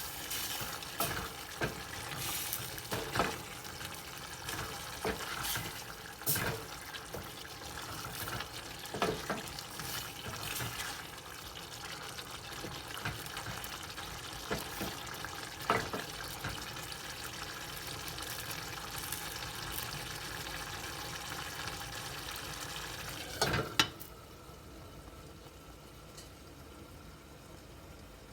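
Kitchen tap running with scattered clatter and knocks of things being handled under it; about 24 seconds in a loud knock comes and the running water stops abruptly.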